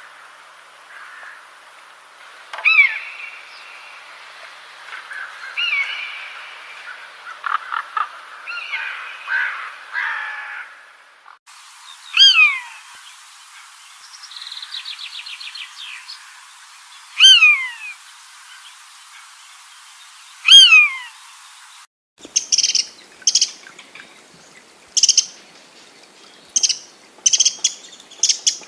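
Birds calling, across three spliced recordings: mixed chirps and calls first, then loud calls that slide steeply downward, repeated every few seconds with one brief buzzy trill between them, then a quick series of short sharp calls in the last third.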